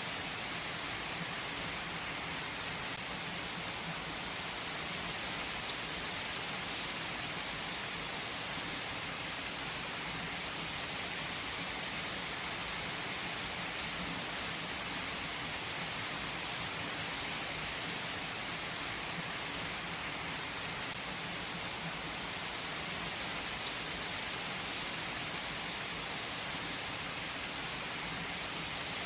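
Heavy rain falling steadily on tree foliage: an even, unbroken hiss of rain with scattered drop ticks.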